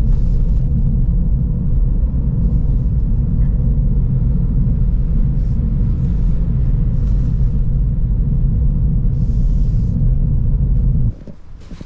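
Toyota GR86 driving, a loud steady low rumble of engine and road noise that cuts off suddenly about eleven seconds in.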